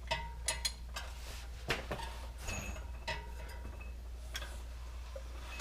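Metal tools and parts clinking and tapping in scattered, irregular knocks, some with a short metallic ring, over a steady low hum.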